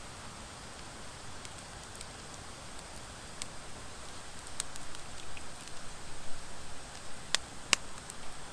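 Wood fire of driftwood and dry hardwood logs burning, with a soft steady hiss and scattered sharp crackles and pops; two of the loudest pops come close together near the end.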